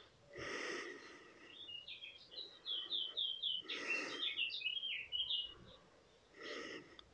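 A small bird singing a fast run of short chirps, about four or five a second, from about a second and a half in to five and a half seconds in. Three short breaths are heard around it, one near the start, one in the middle and one near the end.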